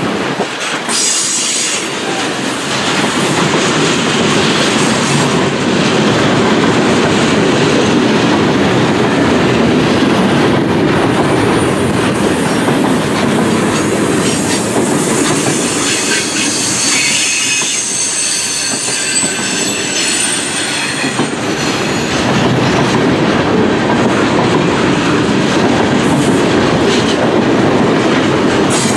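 Freight cars of a long mixed freight train, centerbeam lumber flatcars and boxcars, rolling past close by. Steel wheels run steadily on the rails, with thin high wheel squeals near the start and again through the middle.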